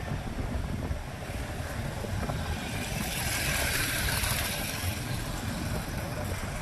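Wind buffeting the microphone and road rumble from a moving bike in street traffic. A rushing hiss swells about halfway through and fades again.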